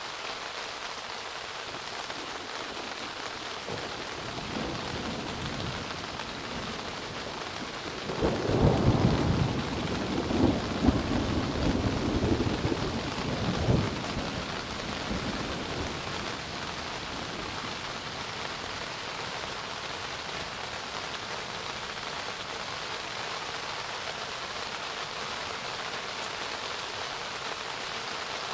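Steady rain falling, with a rumble of thunder that swells about eight seconds in and dies away by about fourteen seconds.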